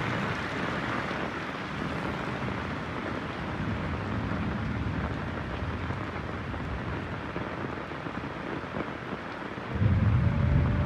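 Heavy rain falling steadily, with low thunder rumbling underneath; a louder roll of thunder breaks in near the end.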